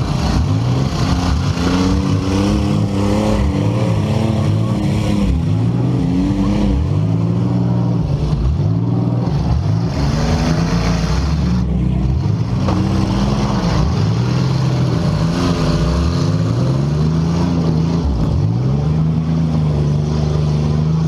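Several compact car engines revving up and down at once, their pitches rising and falling over each other, over a steady din.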